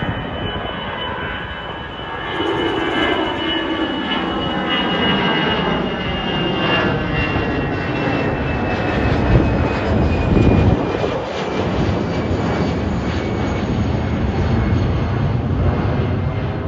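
Jet airliner's engines passing close by, a loud steady noise with a high whine that falls slowly in pitch. It grows louder about two seconds in and is loudest around the middle.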